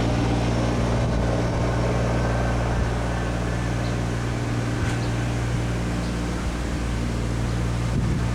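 Steady engine drone with a low, even hum and a noisy rush over it, as heard from inside a moving vehicle.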